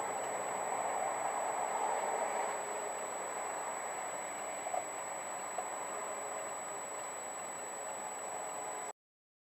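Steady car engine and road noise picked up by a dashcam microphone in a moving car, with a thin steady high whine over it and two small clicks around the middle. It cuts off abruptly near the end.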